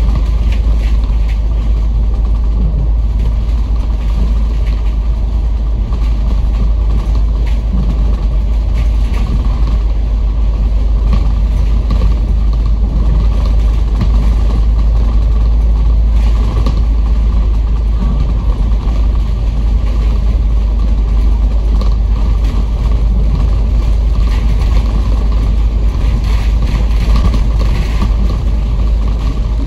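Inside a moving bus: steady low engine and road rumble, with interior fittings rattling and creaking throughout.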